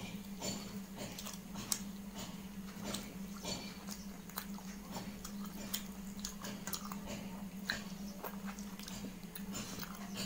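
A person chewing and biting food close to the microphone: irregular short mouth clicks and smacks, a few a second, over a steady low hum.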